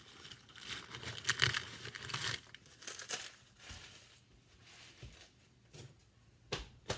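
Paper towels rustling, tearing and being crumpled while wiping up spilled egg, then two sharp clicks near the end.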